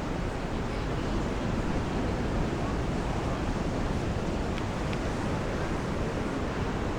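Steady rushing of sea surf washing onto the beach, with wind on the microphone.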